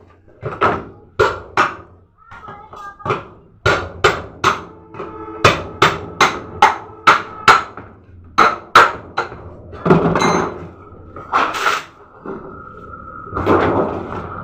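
Repeated sharp metal knocks and blows on a refrigerator's body, about two a second and irregular, many of them ringing, as the fridge is broken open for scrap copper.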